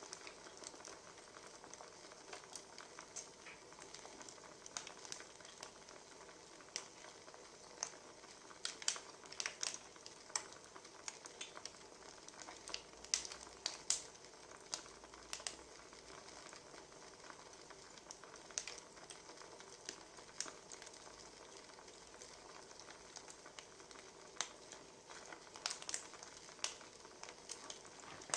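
Burning firewood crackling: a soft steady hiss with irregular sharp pops and snaps.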